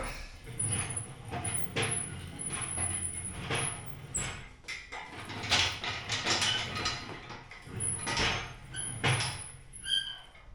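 Irregular knocks, scrapes and rattles of hands-on mechanical work, parts and tools being handled, with brief high squeaks in between.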